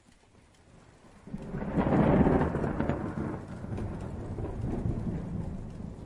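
A single thunderclap: quiet at first, it builds about a second in, is loudest around two seconds, then rolls on as a long rumble that slowly fades.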